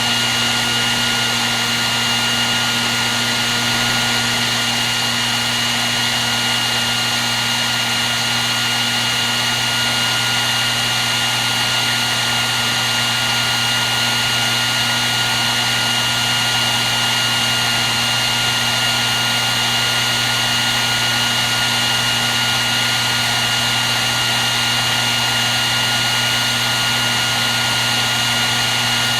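Hair dryer running steadily without a break: an even rush of blown air with a constant high whine and a low hum underneath.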